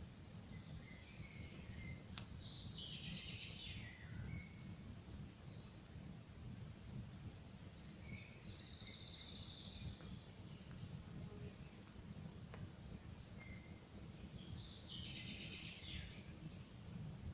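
Forest birds singing: one bird repeats a short high chirp about twice a second, and busier song bursts in three times. Under it runs a steady low rumble, with a faint campfire crackle a couple of times.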